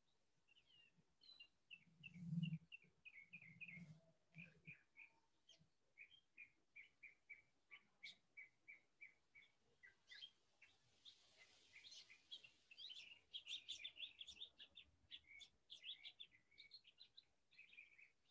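A small bird chirping faintly through a call participant's microphone: a run of short, quick chirps about three a second, growing busier and more varied in the second half. A few dull low thumps come about two seconds in.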